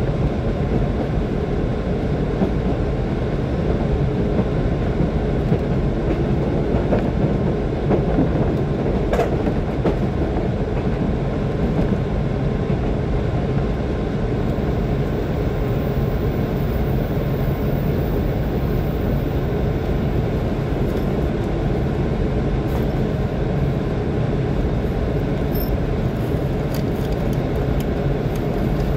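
Running noise inside a JR 185 series electric train as it rolls along: a steady rumble of wheels on rails, with a few faint ticks.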